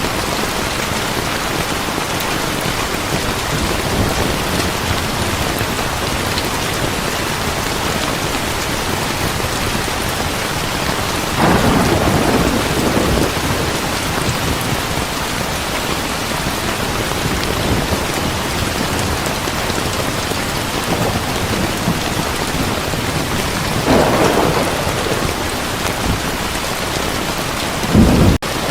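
Heavy rain falling steadily. Thunder rumbles in three times: a little before halfway, again past three-quarters, and once more right at the end.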